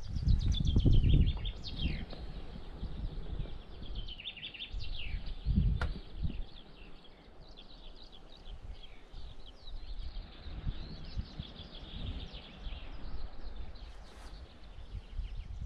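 Songbirds singing: many quick chirps and trills from the surrounding trees. Low rumbling bursts near the start and about five and a half seconds in.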